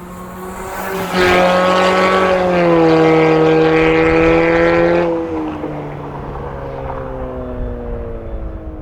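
Lexus NX200t's 8AR-FTS turbocharged four-cylinder through a valved cat-back exhaust, running loud at a near-steady pitch for about four seconds, then dropping in level with the pitch slowly falling as it eases off.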